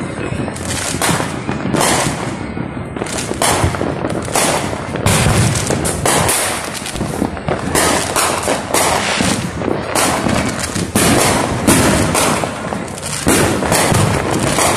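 Many fireworks, firecrackers and aerial shells, going off together in a dense, unbroken barrage of overlapping bangs and crackling, several a second.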